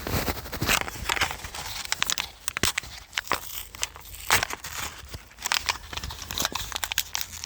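Crinkling and rustling of a replacement taillight bulb's packaging being opened and handled by a gloved hand, with irregular small crackles and clicks.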